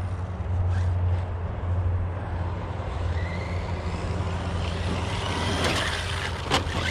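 Spektrum 1250kv brushless motor of an Arrma Notorious RC monster truck running on 8S, whining and rising in pitch as the truck accelerates, over a steady low hum. Near the end come two sharp knocks, the second the louder.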